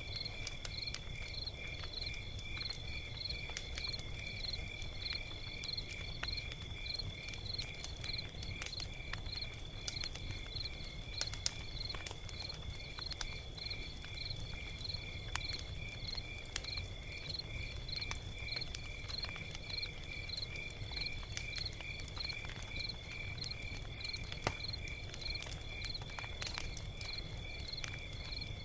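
Log fire crackling, with scattered sharp pops and snaps over a low rumble. Behind it, crickets chirp in a steady high trill that pulses about two to three times a second.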